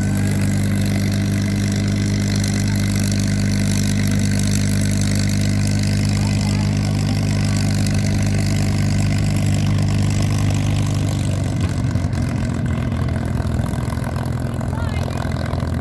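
Piston engine of a propeller airplane running steadily at low power close by. About eleven seconds in, its even note breaks up and eases off.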